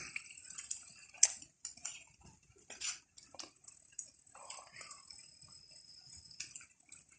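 Wood fire crackling: irregular small pops and clicks from burning rotten planks.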